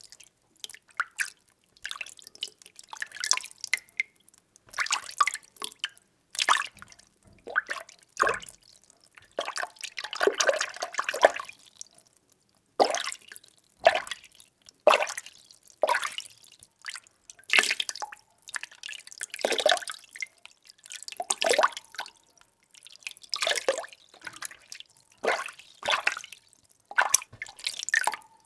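Water being stirred, sloshing and splashing in repeated strokes about every one to two seconds, with one longer churning stretch midway.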